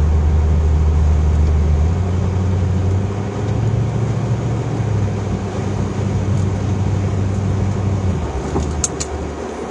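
Car being driven, heard from inside the cabin: a steady low engine and road hum that shifts in pitch in steps and eases off about eight seconds in. A few short clicks near the end.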